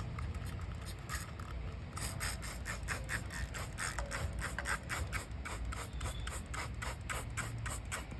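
Trigger spray bottle of degreaser being pumped over and over, a short spray with each squeeze of the trigger, in a quick even rhythm of about four a second from about two seconds in.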